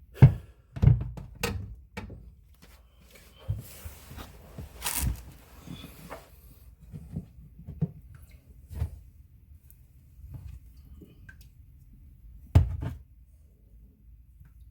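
Irregular knocks and clunks of sink drain pipe parts being handled and fitted back together under a sink, with the sharpest knocks just after the start and again near the end.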